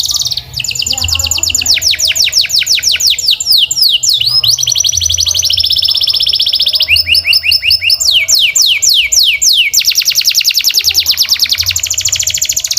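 Canary singing a continuous song of rapid repeated phrases: fast trills of quick downward-sweeping notes that switch to a new phrase every second or two, including a stretch of steadier high rolling notes in the middle.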